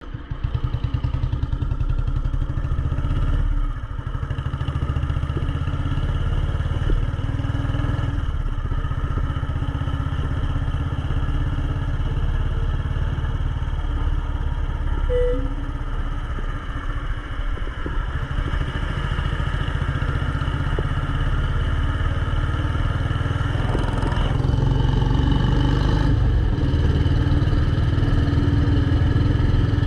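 Royal Enfield Bullet 350's single-cylinder four-stroke engine running while being ridden, a steady low beat that drops briefly about three and a half seconds in and gets louder near the end.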